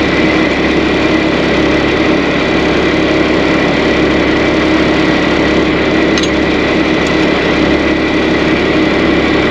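Dump truck engine idling steadily while its brakes are bled.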